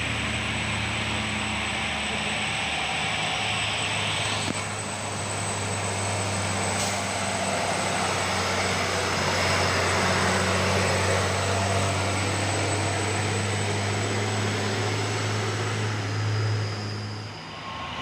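Heavy truck's diesel engine labouring up a steep hill: a steady, low engine drone at a constant pitch that stops sharply about a second before the end. A hiss sounds over it for the first four or five seconds.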